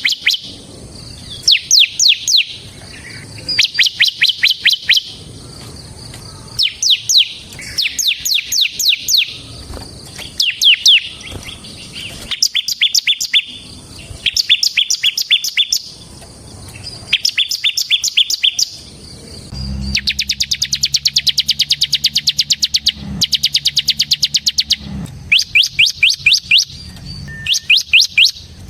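Bar-winged prinia (ciblek) singing in the rapid 'ngebren' drill style: repeated bursts of quick, high, down-slurred notes, each burst about a second long with short pauses between. About twenty seconds in comes a longer, faster trill lasting some five seconds, with a low hum under it.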